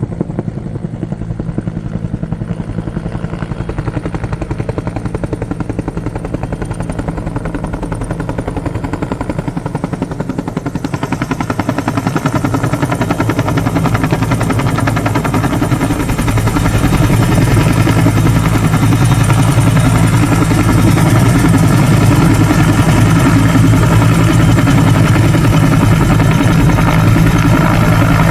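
Firefighting helicopter's rotors beating steadily with a low engine drone, growing louder and brighter about halfway through as the helicopter comes closer.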